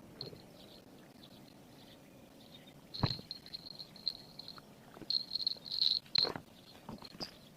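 Insects chirring in a high-pitched, pulsing trill that grows stronger about three seconds in. Two sharp knocks sound about three and six seconds in.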